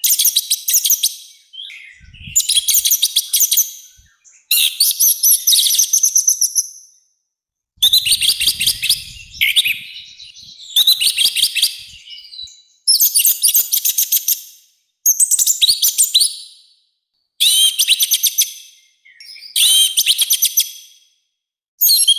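Orange-headed thrush singing loudly and harshly: about ten short, rapid phrases of high whistled and rasping notes, with brief pauses between them.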